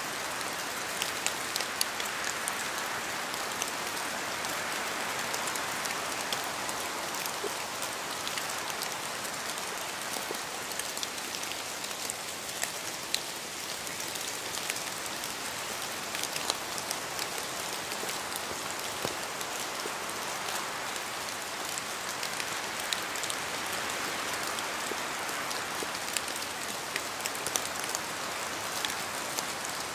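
Steady rain falling, a constant hiss with many individual drops tapping sharply on a surface throughout.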